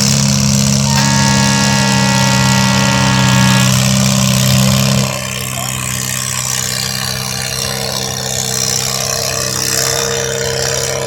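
Vehicle engine idling steadily, loudest for about the first five seconds and then a little quieter. A high steady whine sounds over it from about one second in for almost three seconds.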